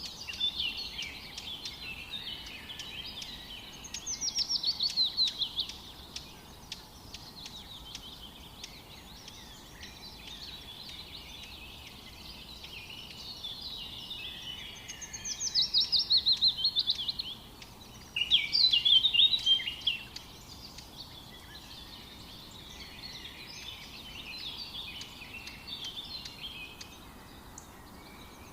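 Songbirds singing in woodland: a continuous mix of chirps, with three louder phrases of fast repeated notes that slide down in pitch, about four seconds in, midway and shortly after.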